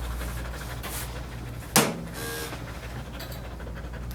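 Portuguese Water Dog panting, with one short, sharp bark about two seconds in.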